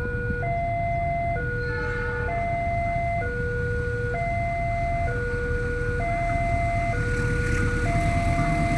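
Railway level-crossing warning alarm sounding, an electronic two-tone signal alternating between a low and a higher tone, each held about a second, warning that a train is approaching. A low rumble underneath grows louder near the end.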